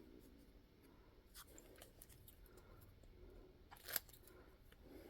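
A few faint snips of scissors cutting thin vinyl, the sharpest about four seconds in, against near silence.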